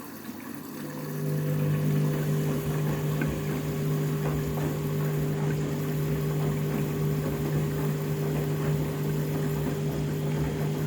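A washing machine's pump starts up about a second in and runs with a steady hum over the sound of water, during the rinse when the drum has filled too high.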